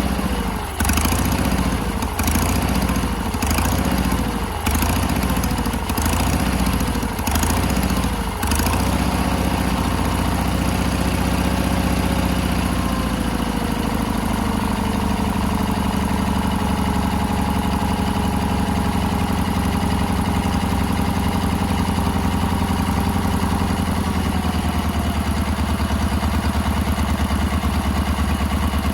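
Sears garden tractor's small engine running while its carburetor is adjusted: it surges up and down about once a second for the first eight seconds or so, then settles into steady running, its speed easing down gradually in the middle. The surging is the sign of a carburetor out of adjustment, which the screw adjustment smooths out.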